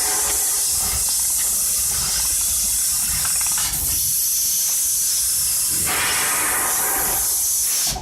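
A steady, loud hiss, strongest in the high range, that cuts off suddenly at the end.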